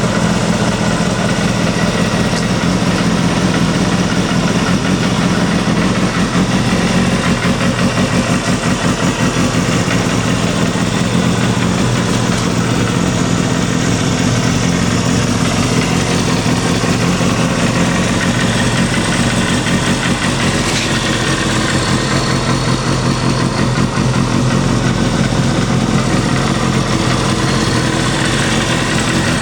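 Suzuki GSX250FX's 250 cc inline-four engine idling steadily, with no revving.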